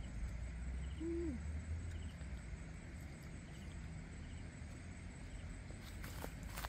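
A single low hooting call from a wild bird about a second in, held on one note and then dropping in pitch, over a steady low background rumble. A few faint clicks follow near the end.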